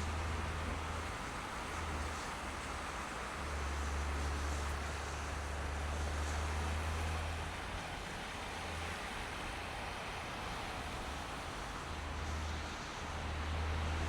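A car driving on snowy city streets: steady road and tyre noise, with a low rumble that comes and goes every few seconds.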